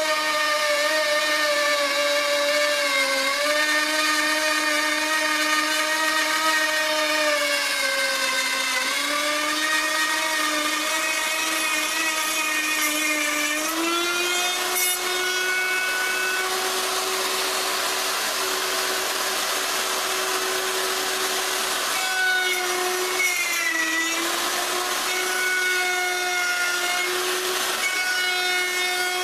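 Router running and cutting wood, a steady high motor whine whose pitch sags as the bit bites into the cut and recovers, around 3 and 9 seconds in, then rises about halfway through. In the second half a rougher cutting noise rides over the whine.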